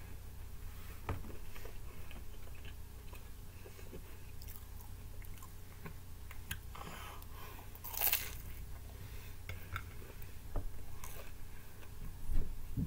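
Close-up chewing and biting of reheated bacon pizza, with scattered small crunches and one louder crunchy bite about eight seconds in. A faint low hum runs underneath.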